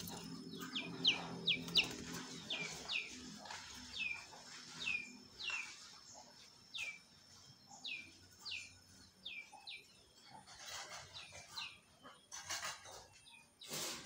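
A bird calling over and over, short chirps that slide down in pitch, about one a second. In the last few seconds come several sharp knocks of a hoe striking soil and stones, the loudest at the very end.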